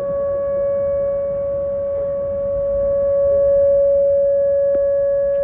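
Outdoor tornado warning siren sounding one loud, steady, buzzy tone during its monthly test, swelling louder through the middle and easing back slightly.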